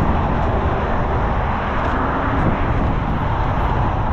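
Steady vehicle noise while driving: a constant low engine and road rumble.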